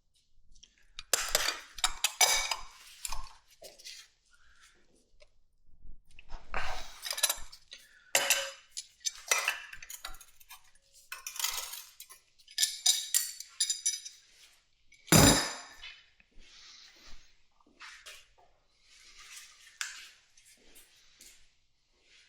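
Hand tools and loose metal motorcycle parts clinking and rattling in irregular bursts, with one louder knock about fifteen seconds in.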